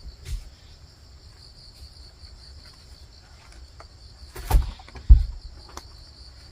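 Crickets chirping steadily in a high, pulsing trill. Two dull thumps about four and a half and five seconds in are louder than the crickets.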